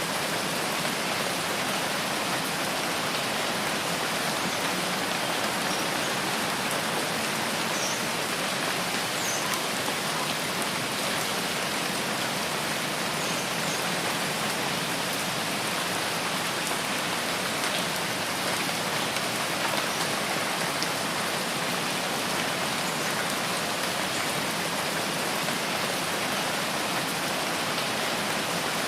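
Steady rain falling on rain forest foliage, an even hiss of many drops with no let-up.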